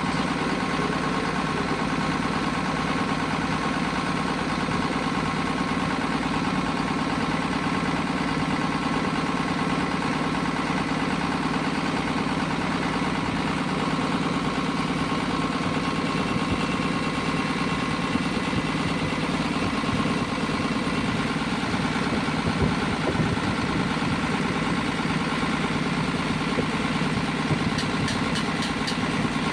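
Diesel engine running steadily at idle.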